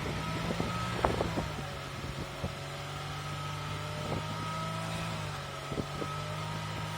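Kia Ceed 1.6 engine idling steadily during a hydrogen decarbonizing (carbon-cleaning) treatment, with a faint steady high whine on top and a few scattered clicks.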